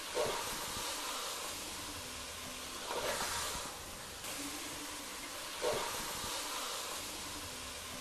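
Chicken masala sizzling as it fries in an aluminium pressure cooker, stirred with a perforated metal ladle. A louder scrape-and-sizzle comes with each stir, about every three seconds.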